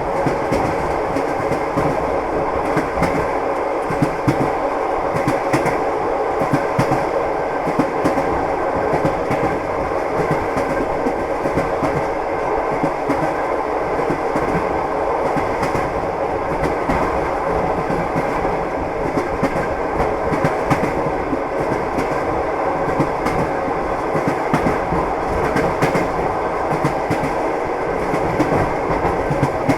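Train running along the track, wheels clattering over rail joints with a steady rumble.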